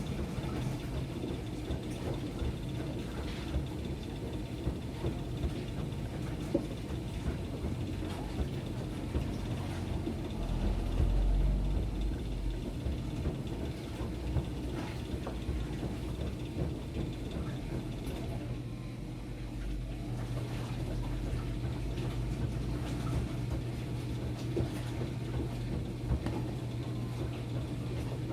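Enxuta Luxo Soft washing machine running a wash with a load of towels: a steady motor hum with small clicks and sloshing. The hum swells into a louder low rumble for a couple of seconds about ten seconds in, and dips briefly about two-thirds of the way through before settling into a steady hum again.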